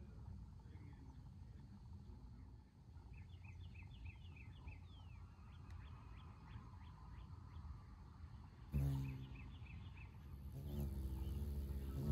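Outdoor ambience with a low wind rumble and, in the background, a small bird's rapid run of high chirps, about four or five a second. Music comes in about three-quarters of the way through.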